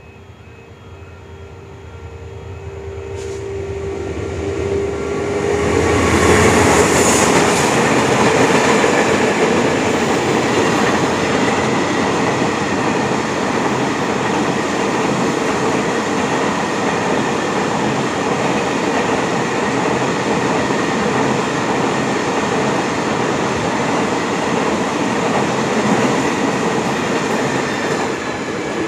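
A freight train hauled by the SRT diesel locomotive CSR-5112 approaches, growing louder over the first six seconds. Its wagons then roll past steadily with loud rail and wheel noise and a thin, high wheel whine.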